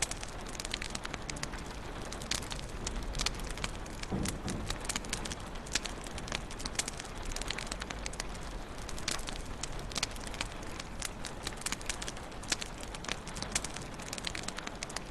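Wood fire crackling in a fireplace, with frequent sharp pops and snaps over a soft hiss, and a brief low thump about four seconds in.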